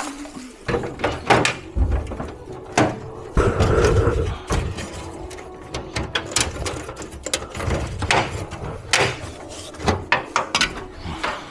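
Clicks, knocks and thumps of air-conditioner parts being handled during disassembly, irregular throughout, with a longer scraping rustle about three and a half seconds in.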